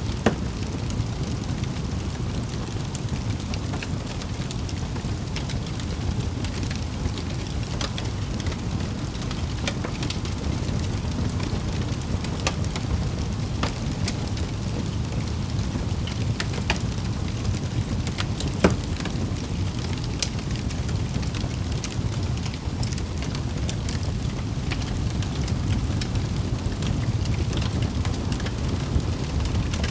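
Wood fire crackling in a fireplace: a steady low rumble with scattered sharp pops, the loudest a little past halfway.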